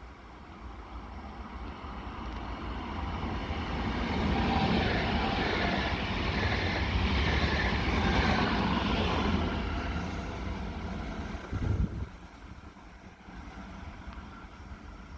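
A train passing through the station, building up, holding for several seconds and fading, with a short low thump just before it drops away near the end.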